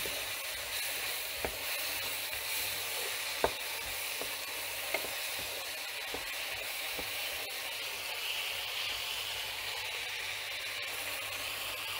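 Vegetables in tomato purée sizzling steadily in a non-stick frying pan as they are stirred with a wooden spatula, with a few light clicks along the way.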